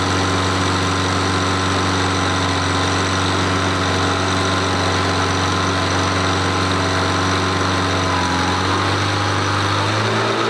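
Avro Vulcan bomber's Rolls-Royce Olympus turbojet engines running at idle, a loud steady jet whine with several layered tones. About eight seconds in, the tones step slightly higher as the engines pick up.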